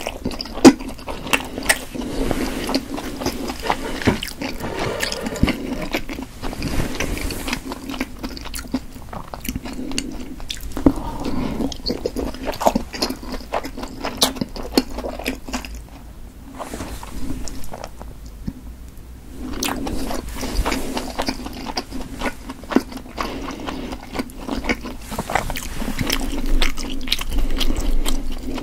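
Close-miked chewing of steamed potato dumplings with chewy dough: wet mouth clicks and smacks, irregular and continuous, easing off for a few seconds a little past halfway.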